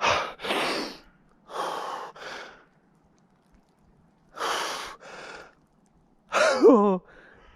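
A man gasping hard, three pairs of sharp breaths in and out: the cold-shock gasp of getting into freezing water. Near the end comes a wavering groan that falls in pitch.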